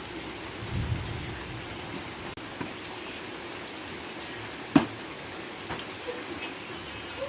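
Steady rain falling as an even hiss, with one sharp smack a little past halfway through.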